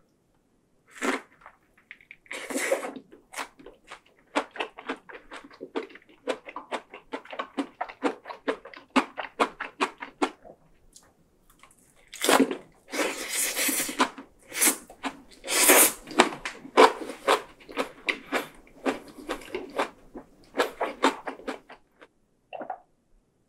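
Close-miked chewing of a fresh Vietnamese rice-paper spring roll packed with crisp vegetables: rapid wet crunching and smacking, with louder bites about a second in, around twelve seconds and around sixteen seconds. It stops near the end, followed by a single gulp of beer.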